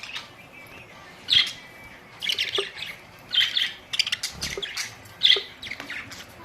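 Budgerigars chirping and chattering in short bursts, several calls a second apart.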